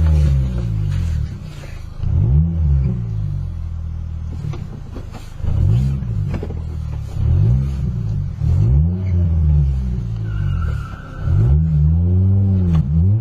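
Car engine revving in repeated surges, its pitch rising and falling again every one to two seconds.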